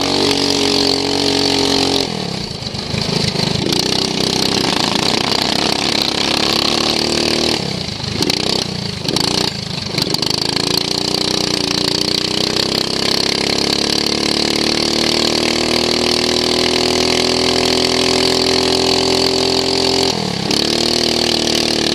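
Racing lawn mower's engine, heard onboard, running at high revs. The throttle comes off briefly about two seconds in and a couple of times around eight to ten seconds in. Then the pitch climbs slowly for about ten seconds as it accelerates, before dropping again near the end.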